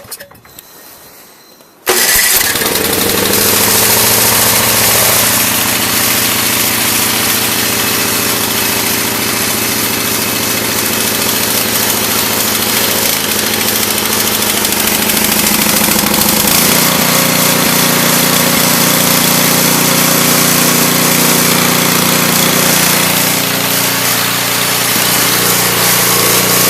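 Electric-start snowblower engine catching suddenly about two seconds in, then running steadily and loudly; its running note shifts a little after about sixteen seconds.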